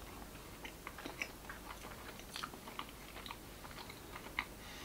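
Quiet chewing of a soft fried doughnut with a spiced caramel filling: faint, irregular wet mouth clicks and smacks.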